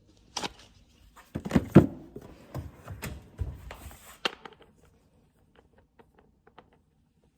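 Tools being handled and set down: a series of knocks and clatters, loudest about a second and a half in, then a few faint ticks.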